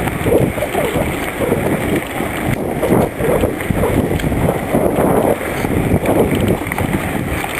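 Wind buffeting the microphone during a bicycle ride, a loud, uneven rushing and rumbling with the riding noise of the bike underneath.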